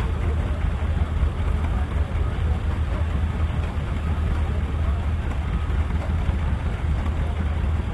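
Pulling tractor engine running at a steady pitch, a continuous low drone.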